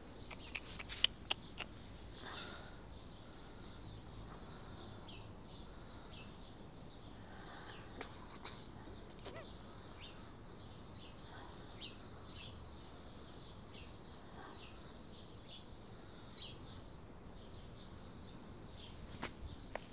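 Small birds chirping in short, repeated calls, with a few sharp clicks near the start.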